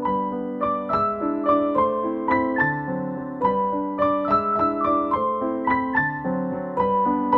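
Background piano music: a melody of quickly struck notes over chords at a steady pace.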